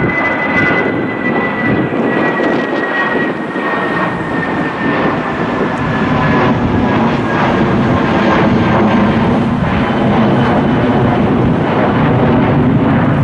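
Jet airliner engines running loud on departure, a steady rumble with a high whine that slowly drops in pitch as the jet passes.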